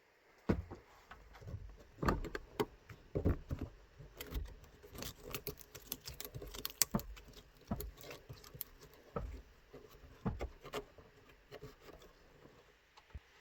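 Irregular light knocks and clatter, many in quick succession, easing off near the end.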